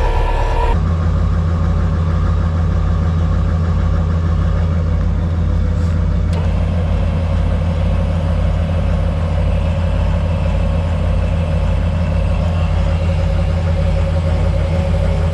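Pickup truck engine running steadily at low speed, a deep even hum.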